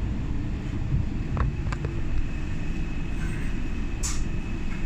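Docklands Light Railway train running, heard from inside the carriage: a steady low rumble, with a thin high whine that sets in about halfway. A couple of light clicks come at about one and a half seconds, and a short hiss about four seconds in.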